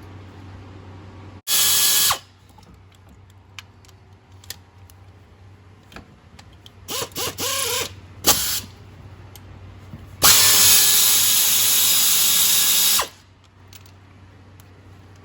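A power drill-driver spinning bolts out of an engine's top end: a short run about a second and a half in, a few quick stop-start bursts midway, and a steady run of nearly three seconds near the end. Faint clinks of parts and tools between the runs.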